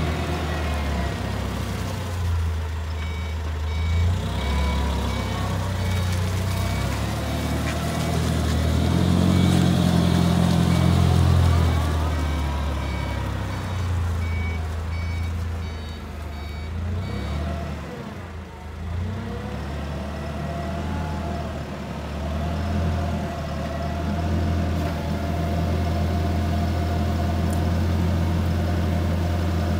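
The NVG Master FL25 truck's engine runs steadily and revs up briefly about a third of the way in. A reversing alarm beeps about twice a second for roughly the first half.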